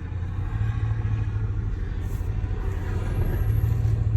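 Chevrolet Silverado pickup's engine running with a low, pulsing rumble, growing louder about three seconds in.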